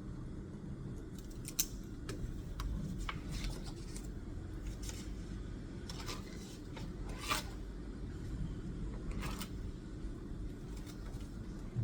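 Quiet desk work on paper: scattered short scratches and a few light ticks over a steady low hum.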